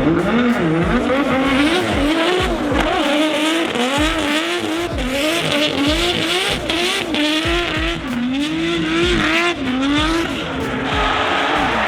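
Drift car engine revving hard, its pitch rising and falling again and again, with tyres squealing as the car slides sideways.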